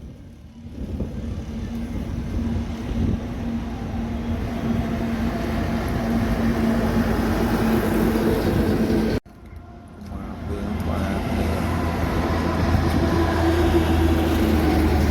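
Truck engine and tyre noise from a passing truck, swelling louder over several seconds. The sound cuts off abruptly about nine seconds in, and a second truck passage starts and builds with a deeper, steady engine note.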